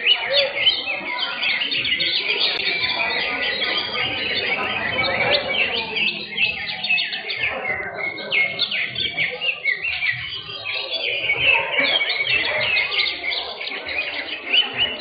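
Many caged greater green leafbirds (cucak hijau) singing at once in competition, a dense, continuous overlapping chatter of rapid chirps and whistles.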